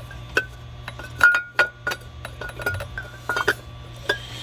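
Irregular metallic clinks and taps, a dozen or so in quick uneven succession, as a metal oil separator is worked down into the engine and knocks against the surrounding parts, over a steady low hum.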